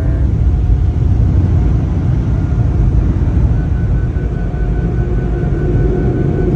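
Automatic tunnel car wash equipment running loud and steady around the car, heard from inside the cabin as a heavy low rumble. A faint high, repeating tone comes in about halfway through.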